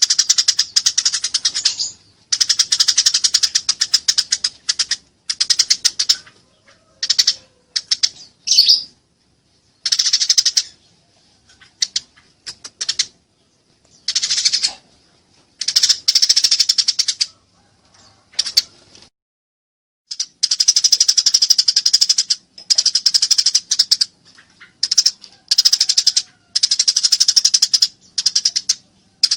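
Eurasian tree sparrows giving their fighting chatter: fast, harsh chirping in bursts of one to two seconds, separated by short pauses, loud and clear.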